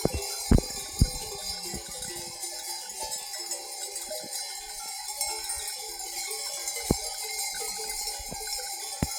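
Livestock bells on a herd clinking and clanking irregularly, many short ringing notes of different pitches, with a few sharp knocks.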